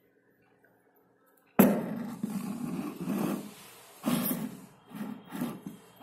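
A slate pencil bitten and chewed: a sudden loud crunch about one and a half seconds in, a long run of gritty crunching, then a few shorter crunches.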